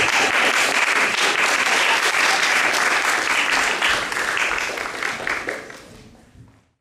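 Audience applauding, dense clapping that thins out and dies away about six and a half seconds in.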